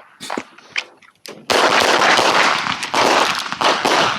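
Handgun fire at a practical-shooting stage: a few separate sharp reports, then from about a second and a half in, a fast, unbroken string of pistol shots with echo.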